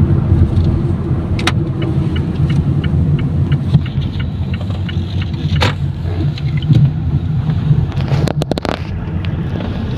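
Steady engine and road rumble heard from inside a moving car. Twice, a faint ticking about three times a second runs for a couple of seconds, in the pattern of a turn-signal indicator. Near the end there is a short, quick cluster of clicks.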